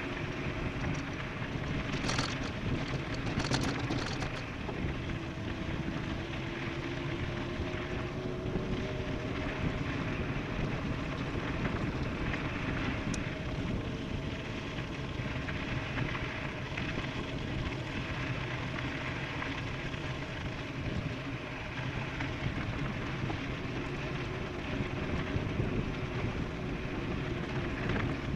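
Wind rushing over the microphone and tyre noise of an e-bike rolling downhill at speed, steady throughout, with a faint steady hum and a few short rattles or clicks a few seconds in.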